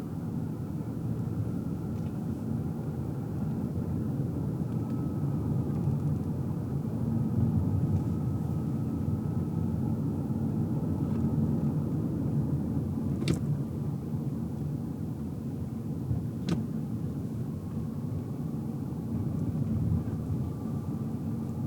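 Steady low rumble of a car driving, heard from inside the cabin, with a faint high whine over it. Two sharp clicks come about three seconds apart in the middle.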